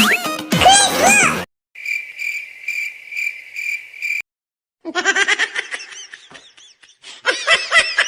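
Cricket chirping sound effect, a steady high pulsing chirp for about two and a half seconds after a sudden cut to silence. High-pitched cartoon voices and music come in around the middle and run on.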